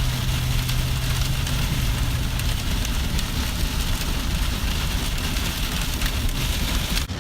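Heavy storm rain pelting a moving car: a dense, loud hiss full of small hits, over a low steady hum that stops about two and a half seconds in. The hiss drops off suddenly near the end.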